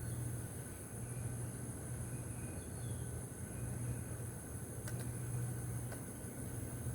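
Outdoor insect chorus: a continuous high-pitched trill of crickets or similar insects over a steady, gently pulsing low hum, with two faint clicks near the end.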